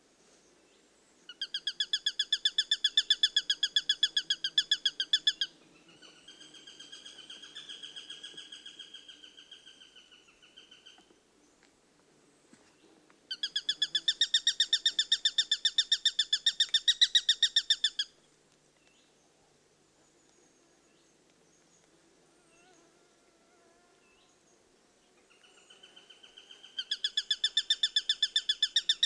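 Eurasian sparrowhawk calling in long, rapid series of sharp repeated notes, about ten a second. Two loud bouts are separated by a softer one; after a quiet gap, a new series builds up and runs loud near the end.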